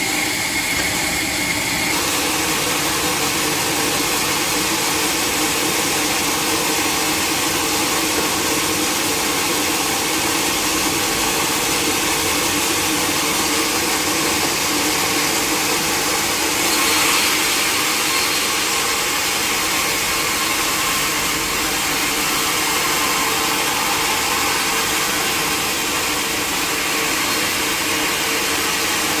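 Sawmill saw machinery running steadily with a loud, even mechanical whine and hiss; it swells slightly about halfway through.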